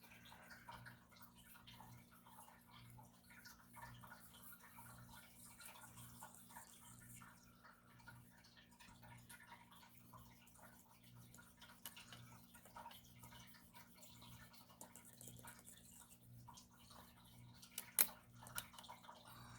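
Near silence: faint scratchy rubbing of an eraser removing pencil lines from drawing film, over a low steady electrical hum, with a sharp click near the end.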